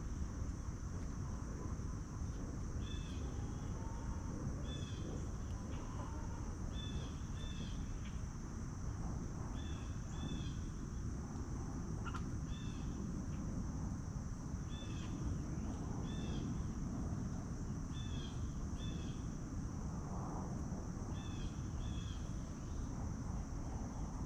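Insects singing in a steady high drone, with a bird giving a short two-note chirp every two to three seconds over a low rumble of outdoor noise.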